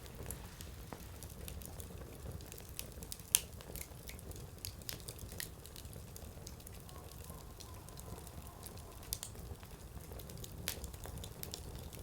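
Firewood burning in an open fire, with scattered sharp crackles and pops from the wood over a low steady rumble of the flames; one loud pop about three seconds in.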